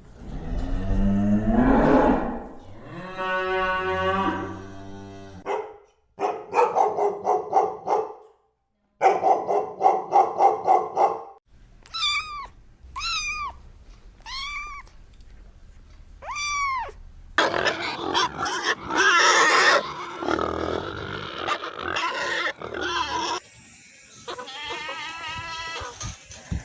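A string of different animal calls cut one after another: pitched calls, pulsed stretches, and a run of four short rising-and-falling calls about halfway through.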